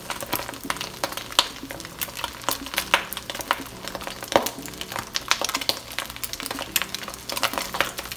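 Scrambled eggs frying in plenty of hot oil in a wok, crackling with many quick pops throughout, while a spoon stirs and lifts them.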